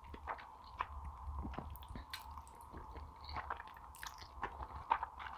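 Close-miked chewing of a mouthful of noodles: a run of short, irregular wet mouth clicks and smacks over a faint steady hum.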